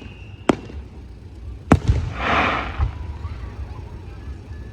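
Fireworks display: two sharp bangs of shells bursting, about a second apart, then a short burst of noise, over a low rumble.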